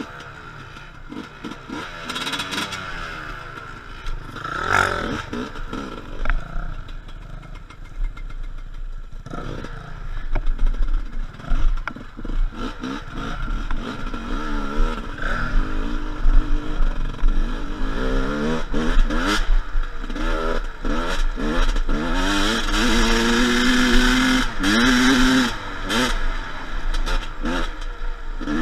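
Enduro dirt bike engines revving, their pitch repeatedly rising and falling with the throttle. They get louder from about halfway through.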